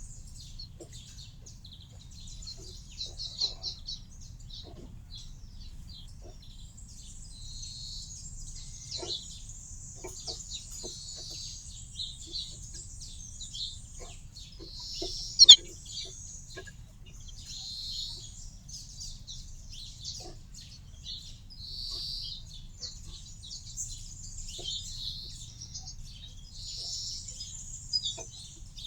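Small garden birds chirping continually, many short high calls overlapping, with one sharp, louder call about halfway through.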